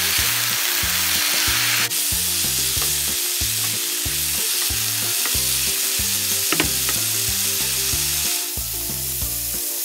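Chicken and vegetables stir-frying in hot oil in a pan, sizzling steadily while a wooden spatula turns them. The sizzle steps down a little about two seconds in.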